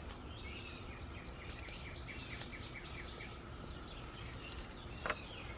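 A songbird singing a rapid run of short descending chirps, about four a second, for about three seconds, then one sharp call near the end, over a steady low outdoor rumble.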